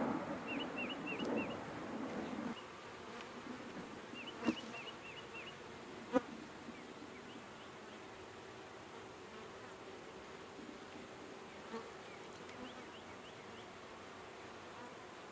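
Honeybees buzzing around an opened Langstroth hive, a steady hum. There is louder rustling noise in the first couple of seconds, and two sharp clicks about four and a half and six seconds in. Birds chirp in the background.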